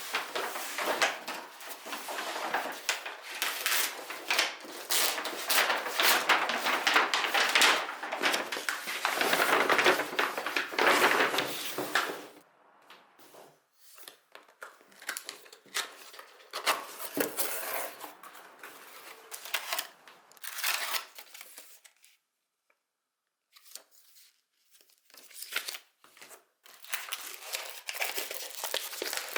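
Packaging being unwrapped by hand: paper and plastic crinkling, rustling and tearing as a new rice pot is unboxed. It is dense and continuous for about twelve seconds, then turns into scattered handling noises with a brief quiet gap before more rustling near the end.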